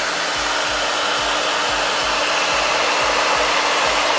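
Hand-held hair dryer running, a steady, really loud rush of air with a constant motor hum underneath.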